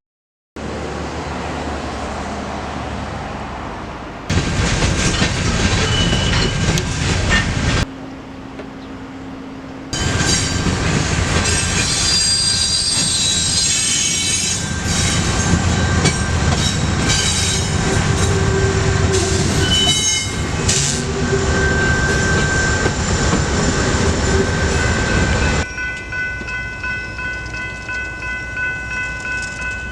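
Freight trains rolling past on the rails, heard in several short cut-together takes, with high-pitched wheel squeal through the middle stretch and several steady tones held together near the end.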